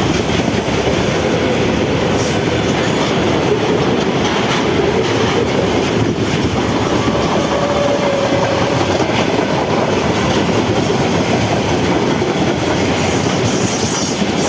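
A train passing close by: a loud, steady rush of wheels on rail with clickety-clack over the rail joints.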